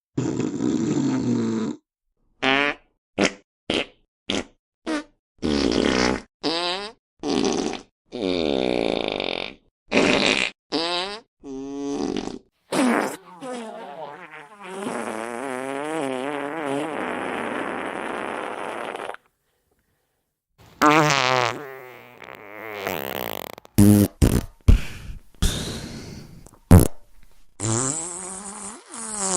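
A rapid string of comedy fart sound effects, one after another: many short blasts and a few longer, creaky ones whose pitch slides and wobbles, one of them drawn out for about four seconds. There is a short silent gap about two thirds of the way through.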